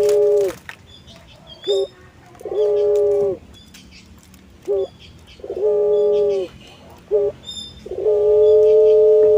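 Puter pelung dove cooing: a short coo note followed by a long held coo, repeated about four times, the last held note the longest.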